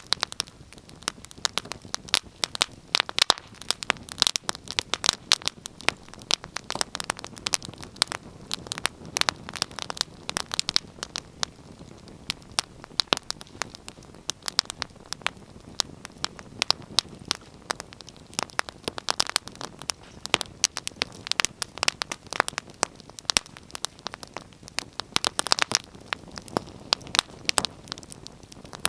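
Wood fire crackling and popping: many irregular sharp snaps over a soft hiss.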